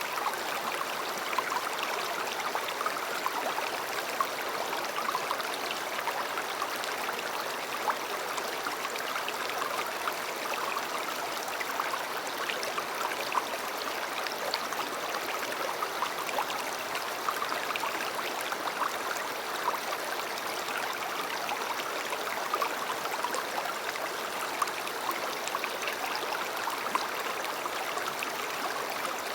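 A river's water running over stones: a steady rushing and babbling with small irregular splashes.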